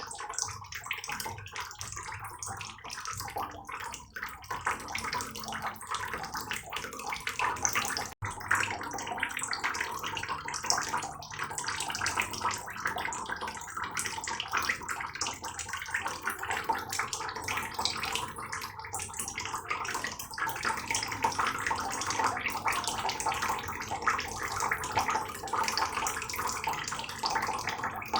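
Heavy rain falling: a steady, dense patter of countless drops, breaking off for an instant about eight seconds in.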